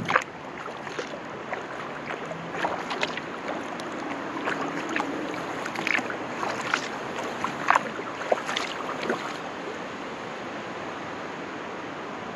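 Kayak paddle strokes: short, sharp splashes and drips of water scattered irregularly over a steady hiss. They stop about three quarters of the way through, leaving only the hiss.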